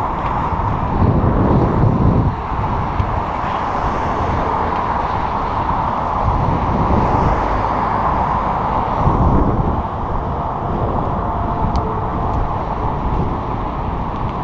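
Wind buffeting the microphone of a bicycle rider moving along a trail: a dense, steady rush with louder gusts about a second in and again near nine seconds.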